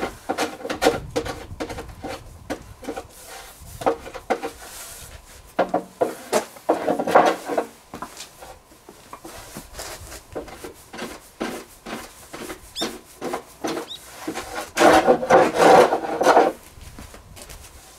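Wood being worked by hand with repeated rubbing, rasping strokes, in the manner of sanding or filing. The strokes come in a steady series, with a louder run about seven seconds in and another near the end.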